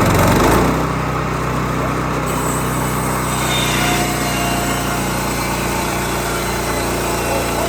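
Small petrol engine of a Bushlander HM122 portable sawmill running steadily, with a brief louder surge in the first half second.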